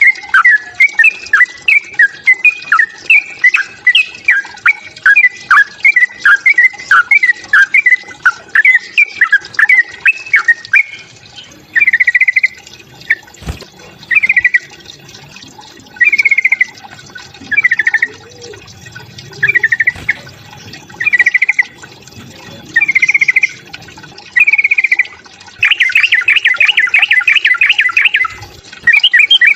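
Yellow-vented bulbul (trucukan) calling aggressively in a fighting mood: a fast run of loud, bubbling chirps, then short separate phrases about every second and a half, breaking into a dense rapid trill near the end.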